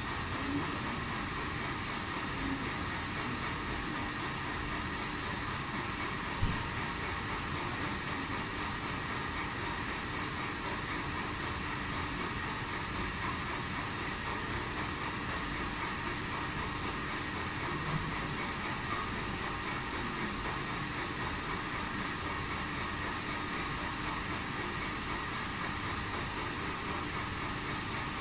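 A milling machine running steadily: an even machine noise with a constant hum and a high steady whine.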